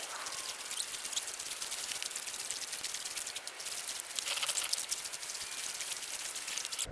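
Slushy lake ice crackling and hissing against a kayak hull as it moves through the slush, a dense fizz of tiny clicks that grows louder for a moment about four and a half seconds in.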